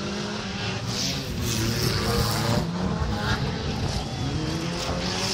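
Several old wreck-race cars' engines revving hard together, their pitches rising and falling as they are driven around a dirt track.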